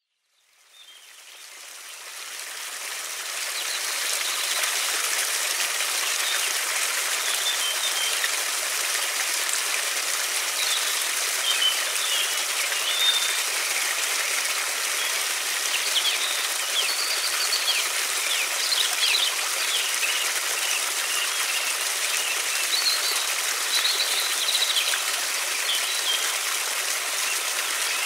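River water flowing in a steady rushing wash, fading in from silence over the first few seconds. Small songbirds chirp on and off above the water.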